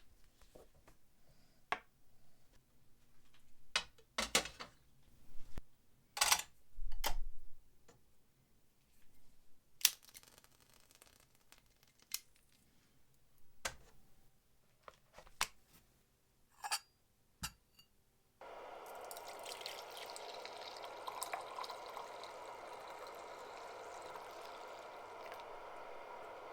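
Scattered light clicks and taps, as of small metal parts being handled. About two-thirds of the way in, a steady rushing sound like running water starts suddenly and continues.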